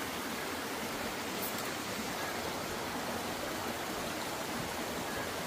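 Steady rushing of running stream water, an even hiss with no breaks.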